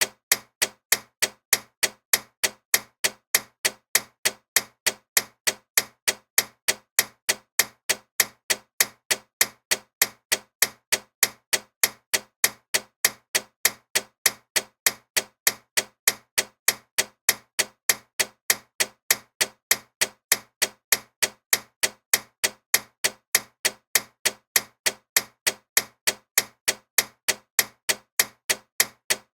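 Loud mechanical clock ticking steadily, about two sharp ticks a second, evenly spaced.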